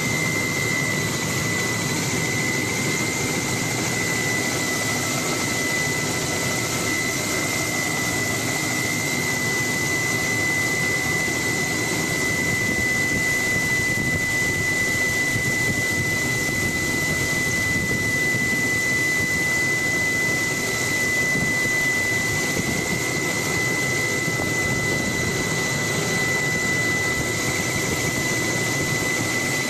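Helicopter turbine and rotor noise as heard from aboard in flight: a loud, steady noise with a high, even whine.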